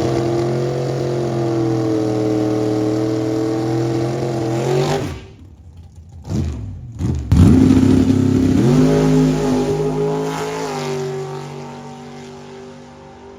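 Car engine held at steady high revs, then dropping off, blipped twice and revved hard with a rising pitch, before steadying and fading away.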